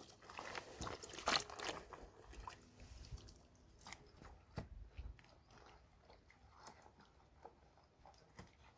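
Faint, irregular crunching and clicking, loudest about a second and a half in.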